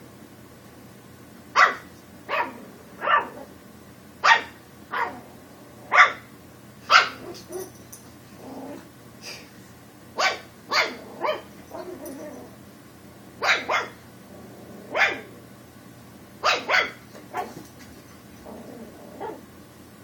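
Pug puppy barking: about sixteen short, sharp barks in ones and quick pairs, with a pause of a few seconds in the middle. These are play barks aimed at a cat, trying to get it to play.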